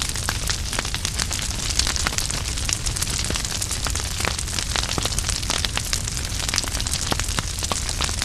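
Wood fire crackling steadily, with many sharp pops and snaps over a soft hiss and a low rumble.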